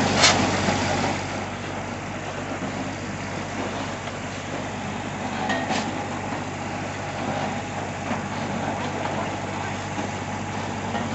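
An engine idling steadily, with a couple of brief sharp clicks over it.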